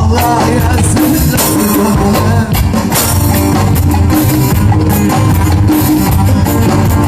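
Live band music with drums and guitar playing a steady beat in an instrumental break between sung lines.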